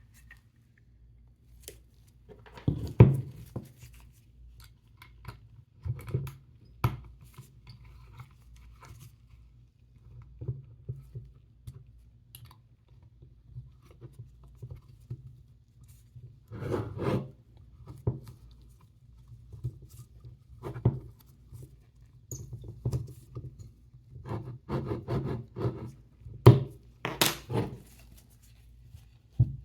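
Handling noises from adjusting the dock of a vertical double laptop stand: irregular knocks and clicks with rubbing and scraping of its parts, the sharpest knocks about three seconds in and near the end.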